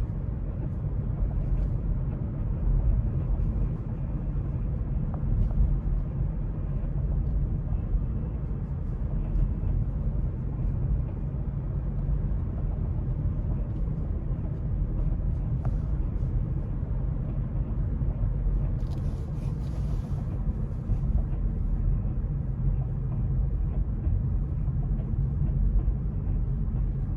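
Steady low rumble from a Hyundai Kona Electric, the unwanted noise its owner calls a bad sound.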